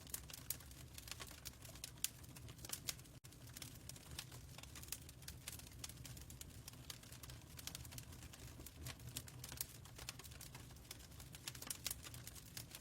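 Fireplace fire crackling: irregular sharp pops and snaps of varying strength over a steady low rumble.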